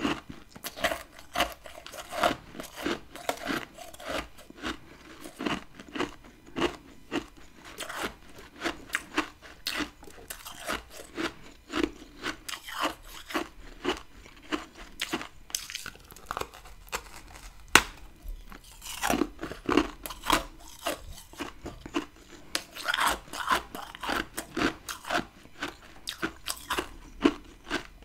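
Chewing and biting of chunks of humidifier freezer frost: quick, irregular crunches, with one sharp snap about two-thirds of the way through.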